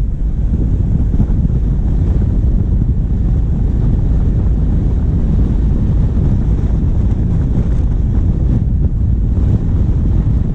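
Steady low rumble of a diesel vehicle driving, heard through a bonnet-mounted action camera's microphone with heavy wind buffeting on the mic.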